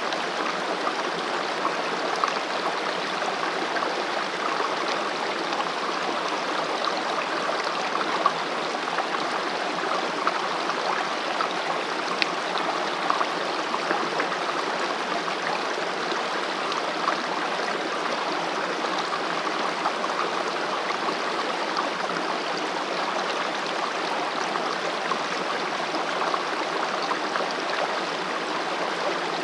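Mountain stream running over rocks: a steady rushing and babbling of water with small splashes throughout.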